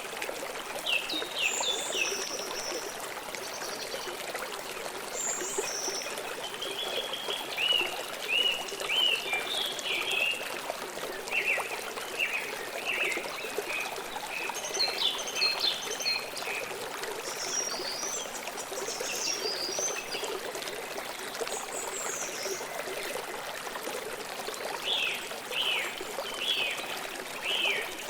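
A river flowing steadily over stones, a constant trickling rush, with birds chirping and calling over it in short bursts of quick notes throughout.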